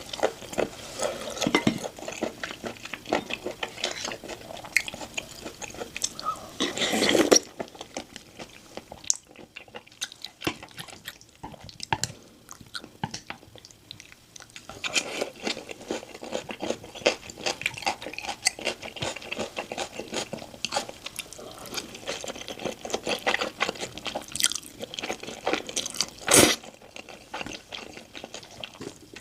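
Close-miked eating sounds: chewing and crunching with wet mouth noises. There is a louder spell about seven seconds in, a quieter stretch after it, and a single sharp click near the end.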